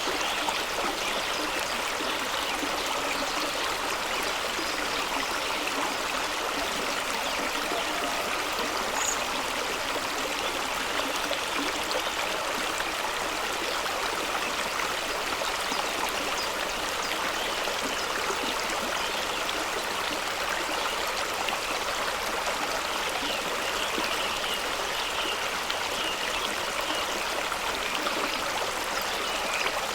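Fast-running stream splashing over rocks, a steady rushing and gurgling of water.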